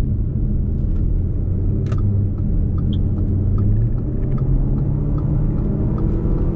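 A car driving, with a steady low engine and road rumble; the engine note rises a little about four seconds in.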